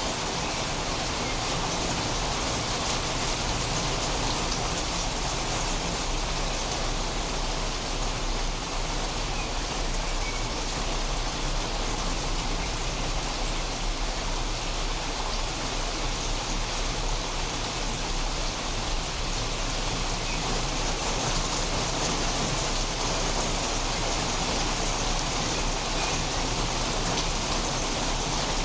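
Steady rain falling during a thunderstorm, an even hiss of drops with no thunder.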